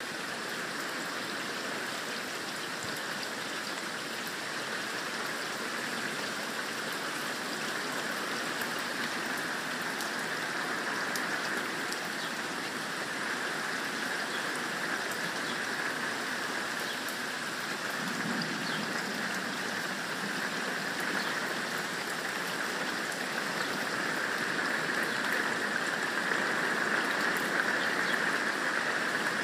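Heavy rain pouring down steadily, pattering on the patio and yard, growing a little louder near the end.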